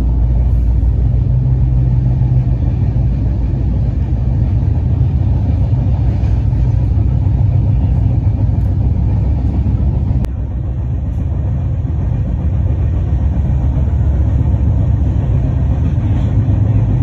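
Steady low rumble of a train running at speed, heard from inside the coach. About ten seconds in there is a click, and the rumble continues a little quieter.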